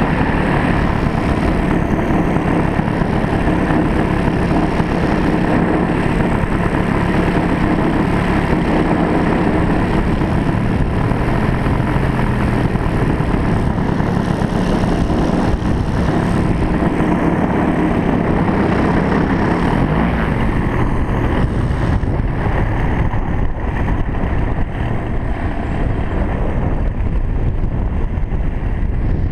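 A 111cc gasoline engine on a radio-controlled Sbach aerobatic plane running continuously at power. Its pitch drifts up and down with the throttle, and rises briefly a little past the middle.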